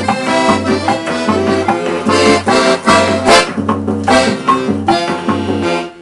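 Accordion playing a tune, with a melody over repeated bass notes, which stops abruptly near the end.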